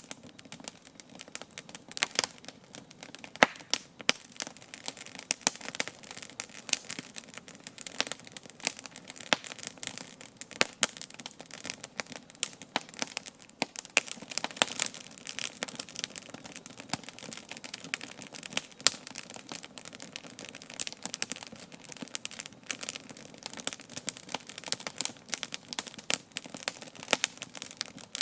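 Wood campfire crackling: irregular sharp snaps and pops over a steady hiss of burning.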